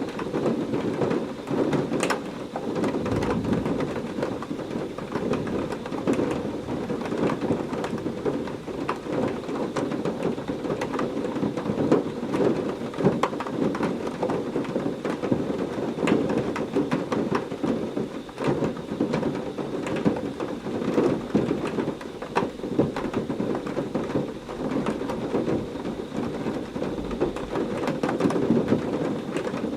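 Heavy rain pouring steadily, with thunder rumbling in a thunderstorm.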